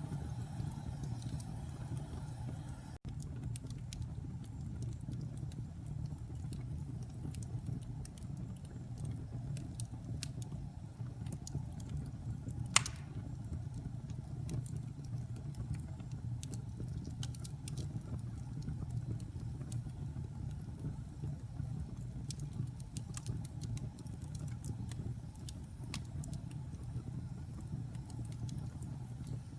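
Wood fire burning in a fireplace: a steady low rumble of flames with scattered small crackles and one sharp, louder pop about thirteen seconds in.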